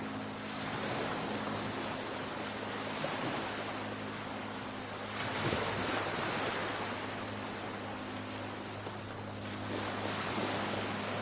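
Sea waves washing ashore in a continuous rush that swells about halfway through and again near the end, with a faint steady low hum underneath.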